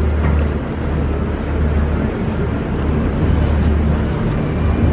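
Steady, loud low rumble of a running vehicle engine, with a constant noisy wash above it.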